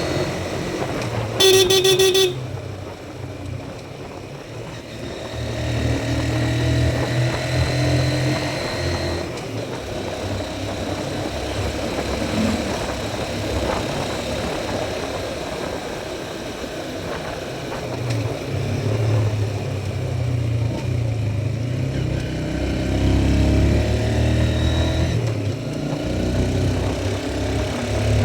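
Motorbike engine running on the road, its level rising and falling with the throttle, with one short horn toot about a second and a half in.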